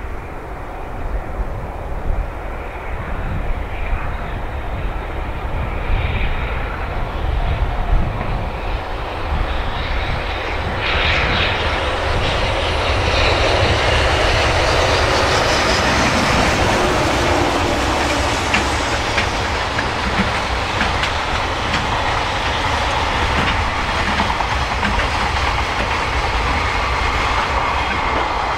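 A container freight train hauled by a JR Freight EH500 electric locomotive comes up and passes. It grows louder about ten seconds in, then the wagons run by with a steady rumble and wheel clatter.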